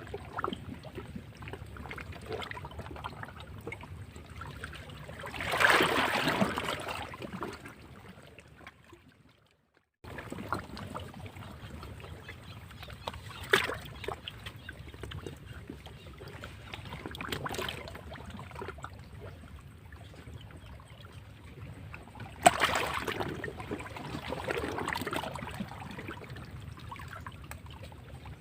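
Sea waves breaking against rocks, with a steady wash of water between surges. One wave swells up loudly about six seconds in and another crashes sharply near the end. The sound drops out briefly just before ten seconds, where the recording is cut.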